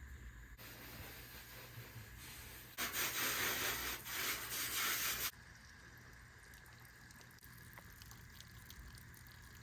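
Water spraying from a hose onto the truck body while washing it before paint, a loud hiss for about two and a half seconds from about three seconds in, with a brief dip in the middle; a softer hiss comes before it.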